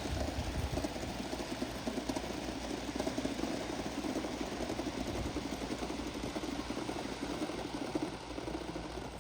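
Gauge 1 live-steam model locomotive running, a steady rapid chatter of exhaust beats over a low rumble.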